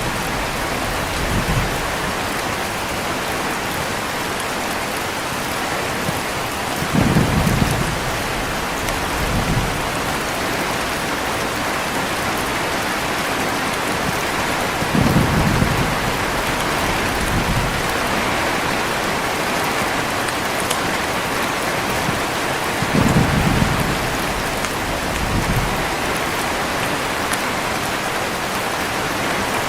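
Heavy rain falling steadily, with low thunder rumbles coming about every eight seconds, each followed by a fainter rumble a couple of seconds later.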